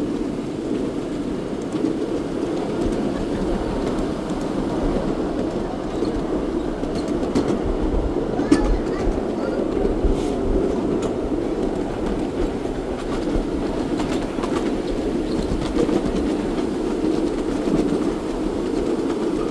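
Steam train running along the track: a steady rumble of wheels on rails, with a few faint clicks.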